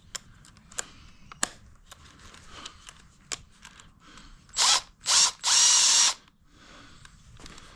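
A power tool runs in three short bursts, the last about half a second long, after a few sharp clicks of tools and parts being handled.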